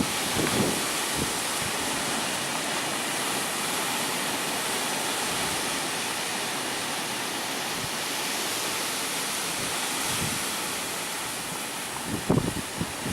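Storm-force wind blowing with a steady rushing noise, with gusts buffeting the microphone in short low thumps just after the start and again near the end.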